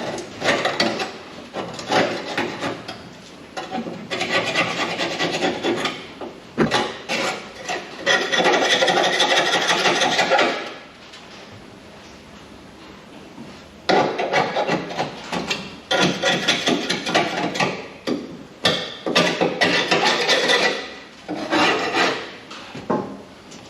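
Rough scraping in irregular bursts as rust is worked off the sheet metal of a 1962 Chevrolet C10 cab, with a steadier, louder stretch about eight seconds in and a lull a little after.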